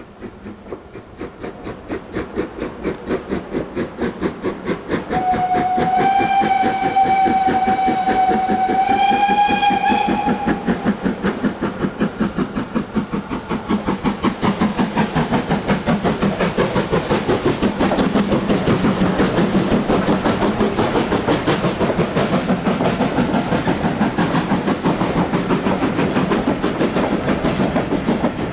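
Steam locomotive running under power, its rapid, regular exhaust beats growing louder as it approaches, then staying loud. Its steam whistle sounds one long blast of about five seconds, stepping slightly higher in pitch near the end.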